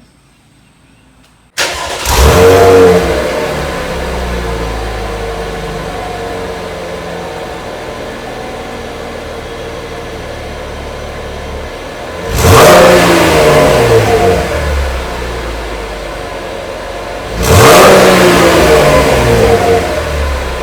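Chevrolet Camaro with the NPP dual-mode exhaust starting up about a second and a half in, flaring high and settling to an idle, then revved twice near the end, each rev climbing quickly and falling back. The NPP exhaust fuse has been pulled, so the exhaust valves stay open and it runs at its loud setting.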